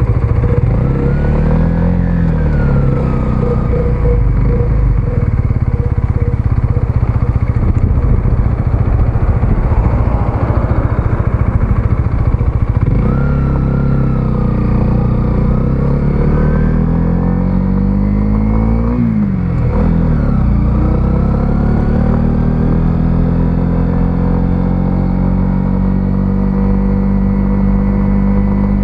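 125cc single-cylinder motorcycle engine under way. Its pitch climbs and drops several times as it accelerates and changes gear, with a sharp fall about two-thirds of the way through, then holds a steady note near the end.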